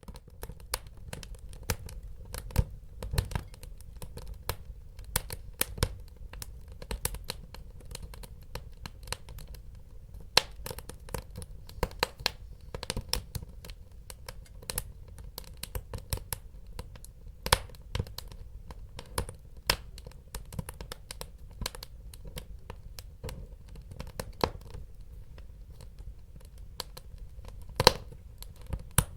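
Wood fire crackling in a fireplace: frequent irregular sharp pops and snaps, a few much louder than the rest, over a steady low rumble.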